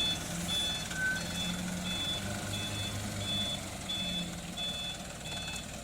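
Dump truck's reversing alarm beeping steadily, a short high beep about every 0.7 s, over the low hum of its diesel engine as the truck backs up.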